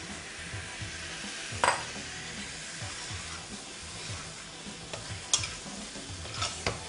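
Raw chicken pieces sizzling in hot onion and ginger-garlic masala in a kadhai, being sautéed (bhuna) and stirred with a perforated metal ladle. The frying hiss is steady, with a few sharp clinks and scrapes of the ladle on the pan, the loudest about two seconds in.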